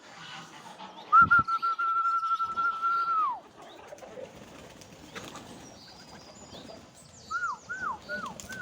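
A person whistling: one long steady note of about two seconds that drops away at the end. Near the end comes a run of short falling whistles, about three a second, typical of calling poultry and pigeons to feed.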